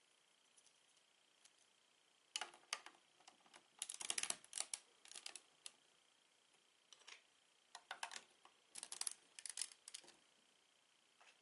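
Lego bricks being handled and pressed together: small plastic clicks and rattles in short flurries, densest about four seconds in and again around eight to ten seconds.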